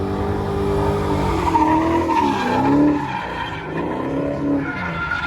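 Drift car engine revving hard, its pitch dipping and climbing as the car slides, with tires squealing.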